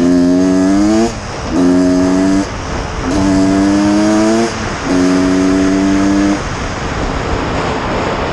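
1989 Honda CR250's two-stroke single-cylinder engine being revved during warm-up: four blips of throttle, each held at a steady high pitch for about a second before dropping back, then running rougher at low revs near the end.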